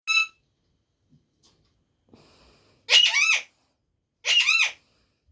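A pet parrot calling: one short high call at the start, then two longer calls about a second and a half apart, each with a pitch that swoops up and back down.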